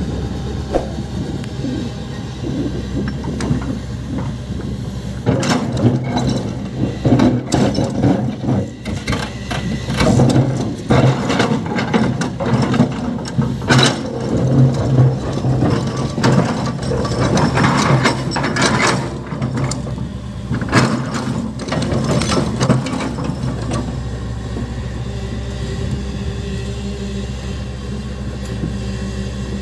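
Large hydraulic excavator and dump truck diesel engines running steadily, with heavy clanking and clattering from about five seconds in to near the end as the excavator loads soil and rock into the truck's steel body.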